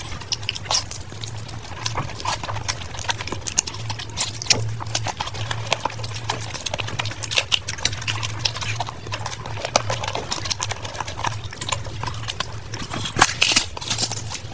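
Close-miked chewing and wet lip-smacking of rice, curry and meat eaten by hand, a steady stream of small clicks and squelches. About a second before the end comes a louder crackle as a puffed fried puri is torn apart.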